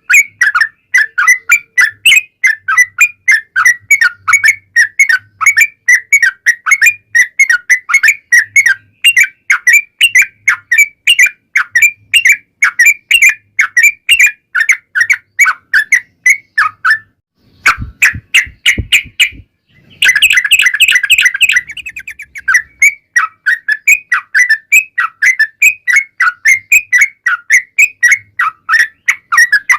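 Yellow-vented bulbul (trucukan) song: a long rapid run of short whistled chirps, about four or five a second. It breaks off briefly with a few sharp clicks, then returns as a loud, dense flurry about twenty seconds in.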